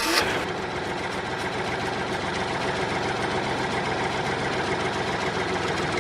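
Engine idling steadily with a fast, even chug.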